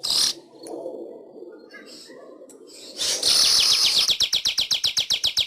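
Manyar (weaver bird) singing: a short sharp call at the start, then about three seconds in a loud buzzy note that breaks into a fast ticking chatter of about a dozen notes a second. A low murmur sits underneath.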